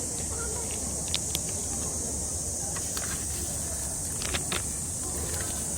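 A steady, high-pitched drone of summer insects, with scattered light clicks and ticks throughout.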